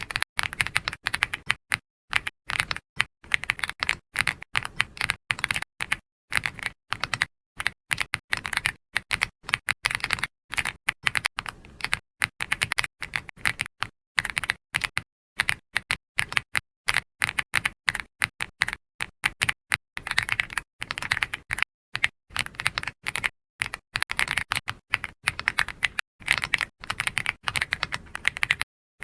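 Computer keyboard being typed on, keys clicking in quick irregular runs with brief pauses between them.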